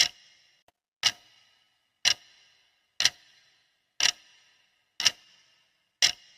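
Clock ticking sound of a countdown timer: one sharp tick each second, seven in all, each with a short fading ring.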